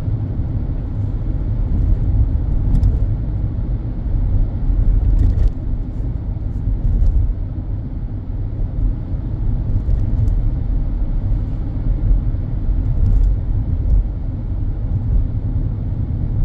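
A moving car's steady low road and engine rumble, with a few scattered faint knocks and rattles from the road surface.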